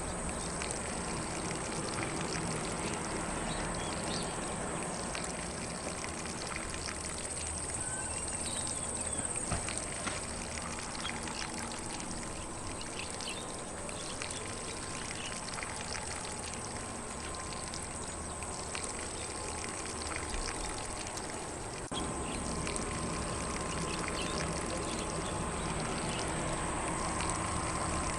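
Lawn sprinkler spraying water steadily across grass, a continuous hiss and patter, with faint bird chirps now and then.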